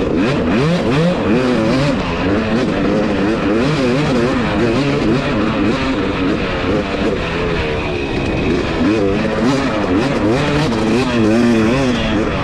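Two-stroke Husqvarna TC250 dirt bike engine revving up and down over and over as it is ridden, its pitch rising and falling every second or so.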